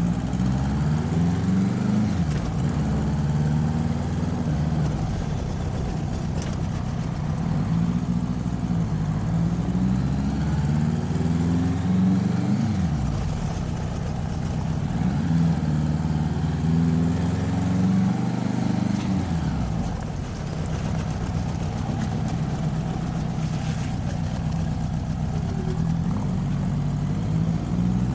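Motorcycle engine pulling through the gears while riding: its pitch climbs with the revs and drops sharply at each upshift, several times over.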